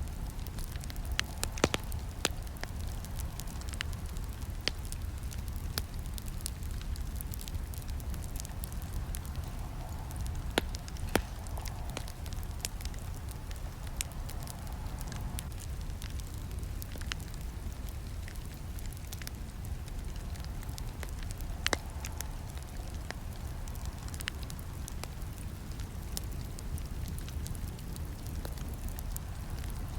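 Campfire burning: a steady low rumble of flames with frequent sharp crackles and snaps of burning wood.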